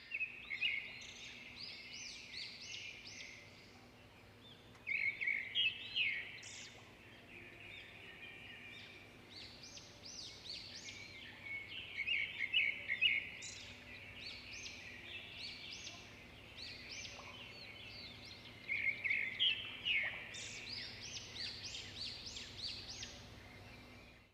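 Birdsong: clusters of quick, high chirping notes that come and go in bursts, loudest about 5, 12 and 19 seconds in.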